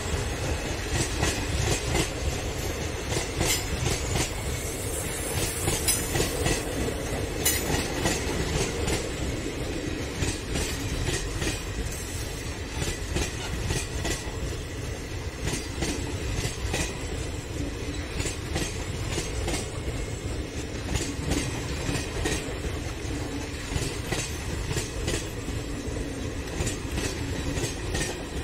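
Passenger coaches of an Indian Railways express train rolling past at speed: a steady rumble, with the wheels clattering over the track in frequent sharp clicks.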